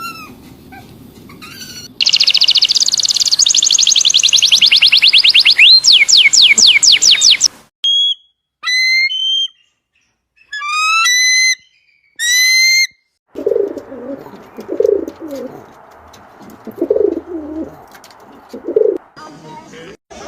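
Birds calling in three short clips. First comes a fast run of high, repeated chirps, then separate whistled calls with pauses between them, then a low cooing call repeated several times, typical of a dove.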